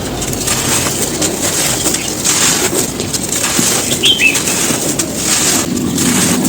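Gritty, dry crispy cones crunching and crumbling as they are crushed, a dense steady crackle. A short chirp, like a bird's, about four seconds in.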